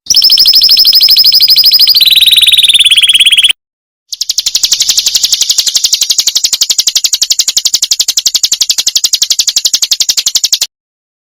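Recorded high-pitched trills of the kind played as song fill for training songbirds: a very fast pulsed trill that steps down in pitch about two seconds in and breaks off, then after a short gap a longer, higher, buzzier trill that stops suddenly near the end.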